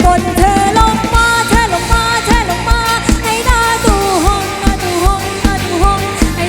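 Live Thai pop band music: a steady drum beat under a lead melody that bends and wavers in pitch.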